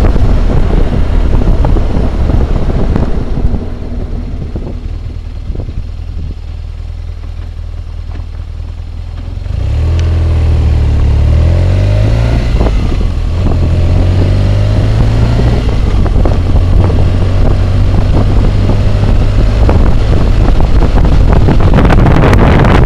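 BMW motorcycle riding, heard through a helmet-mounted camera's microphone as engine and wind roar. It quietens for several seconds, then about ten seconds in the engine picks up, its pitch rising and stepping down as it accelerates through the gears.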